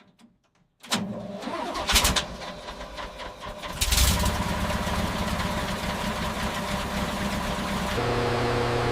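An engine starting: after a brief hush it cranks over unevenly with a few louder bursts, catches about four seconds in and settles into steady running, its note shifting a little near the end.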